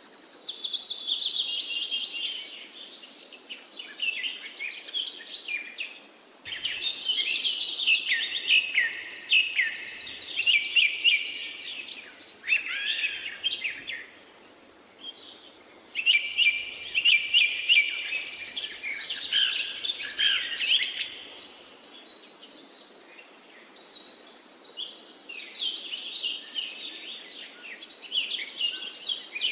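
Several songbirds singing and chirping together in dense bouts of rapid trills and whistles, easing off briefly a few times before picking up again.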